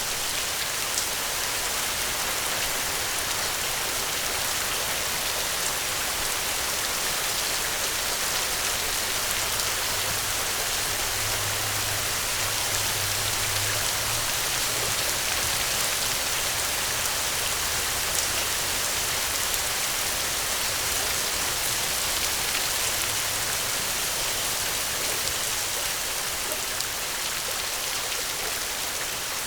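Steady rain falling, a dense, even patter of raindrops on surfaces.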